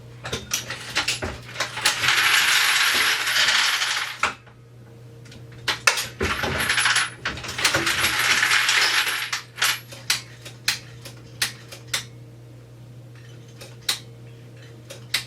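Dillon XL650 progressive reloading press and its feeders at work: metal brass cases and bullets clinking with many sharp clicks, two long rattling spells of about two seconds each, and a steady motor hum underneath.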